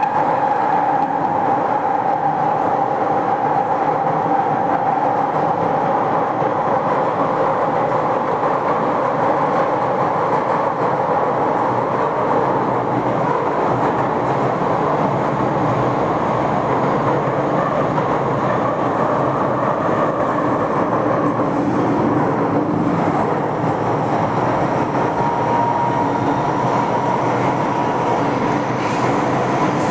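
MTR M-Train (Metro-Cammell electric multiple unit) running on the Kwun Tong Line at steady speed: a continuous rumble of wheels on track with a whine that sags slightly in pitch early on and rises again near the end.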